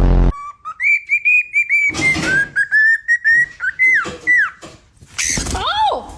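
A parrot whistling a run of short, quick notes that dip slightly in pitch midway and end in falling glides, broken twice by harsh squawks. A brief loud buzz sounds at the very start.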